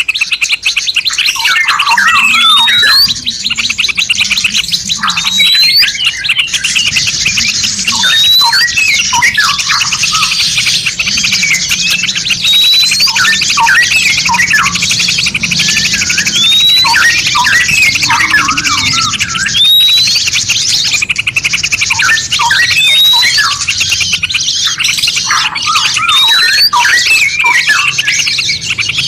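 Several caged songbirds calling at once: continuous rapid high trilling and chattering, scattered short chirps, and a clear rising whistle repeated about every two seconds.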